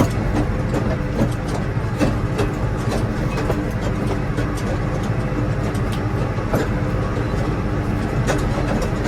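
A vehicle's engine running steadily with a low rumble, with loose rattles and knocks scattered throughout.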